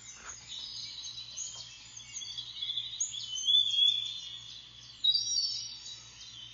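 Outdoor ambience of several birds chirping and singing at once, many short overlapping calls and trills, with louder calls a little past the middle.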